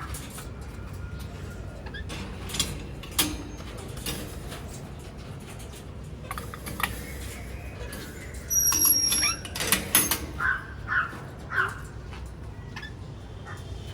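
Parrots give a few short calls, four of them in quick succession near the end, among scattered clicks and knocks.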